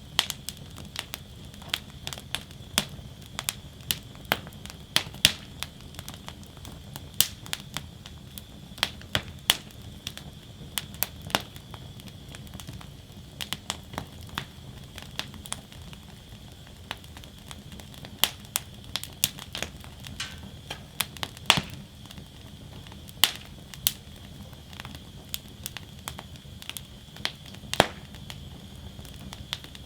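Wood fire burning in a metal fire basket: irregular sharp crackles and pops, at times several a second, over a steady low rumble and a faint high hiss.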